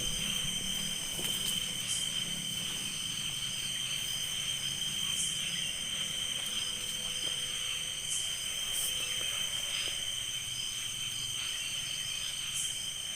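Steady chorus of night insects such as crickets: a continuous high-pitched trilling at several pitches that does not break, with a faint low rumble beneath.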